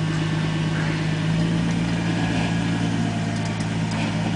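Engine of an off-road 4x4 idling steadily.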